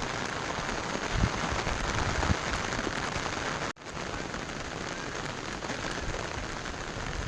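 Heavy rain falling steadily. It cuts out for an instant a little past halfway, then continues slightly quieter.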